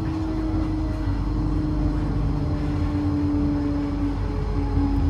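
Electric train in the station: a steady electric hum that drops slightly in pitch in small steps, over a low rumble.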